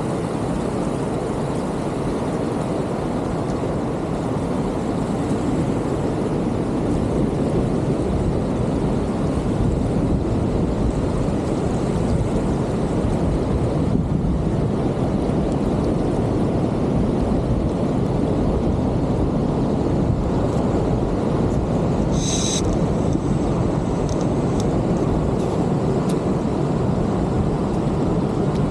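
Ocean surf breaking continuously, a steady low rush of big waves with no letup. About 22 seconds in there is one brief high-pitched sound.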